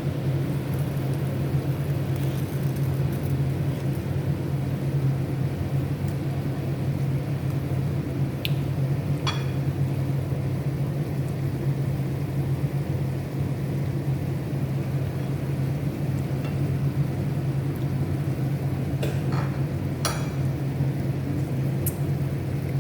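Chicken adobo simmering down in a pan as the sauce thickens: a steady low hum with a faint sizzle, and a few light clinks of a utensil against the pan, twice about a second apart near the middle and a few more near the end.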